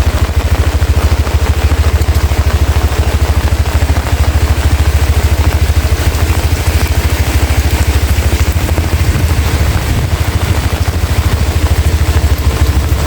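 Heavy rain falling steadily, over a loud low rumble that pulses rapidly and evenly throughout.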